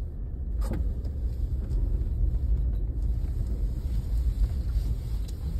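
Low, steady rumble of a car heard from inside the cabin, with one short click a little under a second in.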